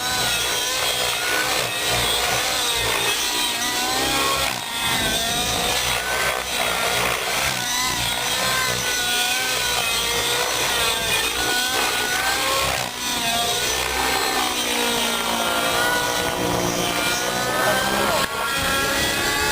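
RAVE ENV nitro RC helicopter in flight, its glow engine buzzing with a pitch that wavers up and down as it flies.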